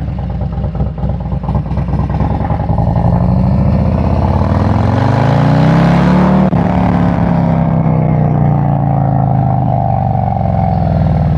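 Harley-Davidson V-twin motorcycle engine pulling away under acceleration. Its pitch rises for a few seconds, then drops at a gear change about six and a half seconds in and eases down slowly.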